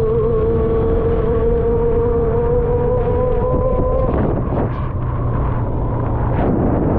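Motorbike engine running at speed, with wind buffeting the microphone. A steady engine whine climbs slightly, then fades about four seconds in, leaving the wind rumble and road noise.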